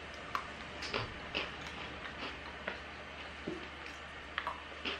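Crunching of an almond-and-chocolate Pepero biscuit stick being bitten and chewed: short, irregular crisp crunches, about ten of them, over a faint steady low hum.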